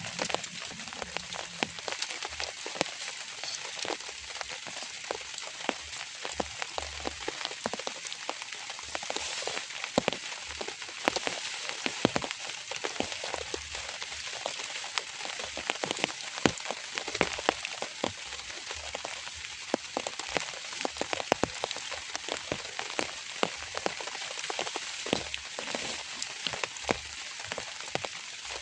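Steady light rain, an even hiss with many individual drops ticking sharply and irregularly throughout.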